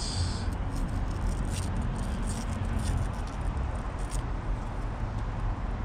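Small clicks and rattles of oscilloscope test leads and attenuators being handled, mostly in the first four seconds, over a steady low rumble.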